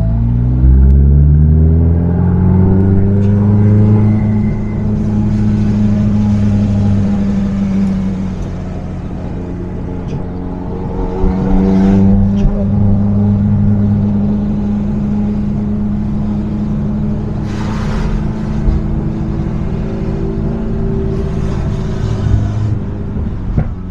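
Car engine accelerating hard, its pitch climbing over the first few seconds and holding high. It eases off about eight seconds in and pulls up again a few seconds later, with a few short sharp pops along the way.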